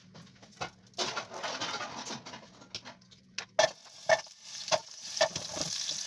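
Meatballs being dropped one by one into hot oil in a metal pot. Light crackling of the oil, then from a little past halfway a sharp tap about twice a second as each ball goes in, with the frying sizzle building.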